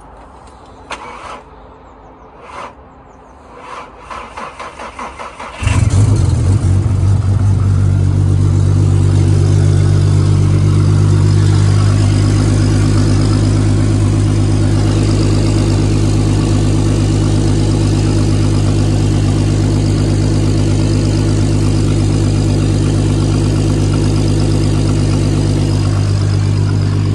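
Turbocharged VW Golf R32 VR6 engine being started: a few clicks, then the starter cranking for about two seconds before the engine catches about six seconds in and settles into a steady idle. This is its first start with the freshly refitted turbo exhaust manifold, and no exhaust leaks can be felt.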